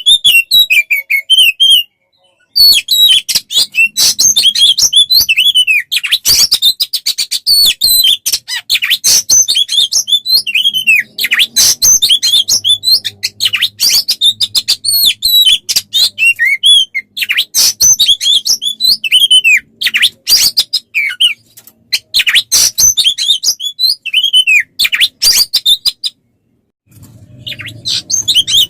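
A songbird singing a fast, varied masteran song of chirps, clicks and whistled notes that fall in pitch, the kind of recording played to train Oriental magpie-robins (kacer). The song breaks off briefly about two seconds in and again near the end.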